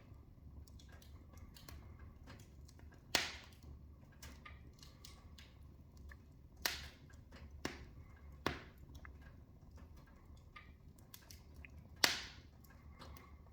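Wood fire in a fireplace crackling: a steady run of small ticks, with sharp pops about three seconds in, several more between about 6.5 and 8.5 seconds, and one near the end.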